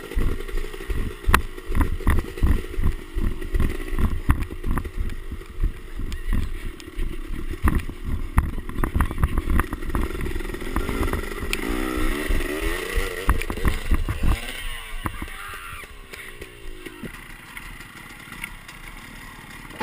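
Dirt bike engine running and revving, its pitch rising and falling several times about twelve to fifteen seconds in, over a heavy, uneven low rumble. After that it drops to a quieter, steadier sound.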